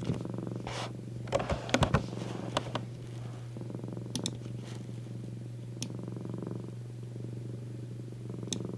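A domestic cat purring steadily and close up, swelling and easing with each breath. A few sharp clicks and taps break through, the loudest about two seconds in.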